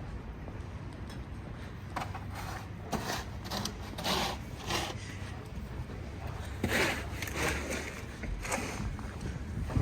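Irregular crunching and scraping of snow, in short noisy strokes about half a second to a second apart, over a low steady city rumble.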